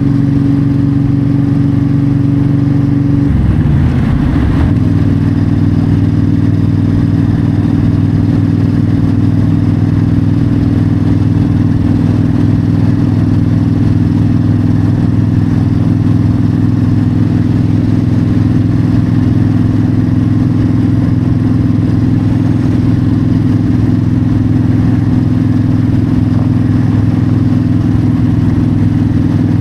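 Yamaha V-Star 1300's V-twin engine running steadily at highway cruise, with wind noise. The engine note briefly shifts pitch about three seconds in, then settles again.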